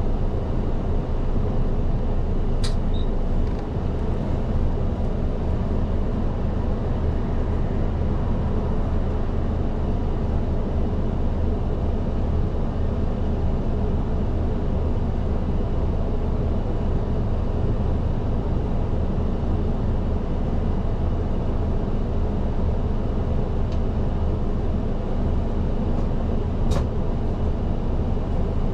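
Cabin noise of a moving city bus (type LDG-KV234Q3): the engine runs steadily under an even road and tyre noise. A sharp click sounds about three seconds in and another near the end.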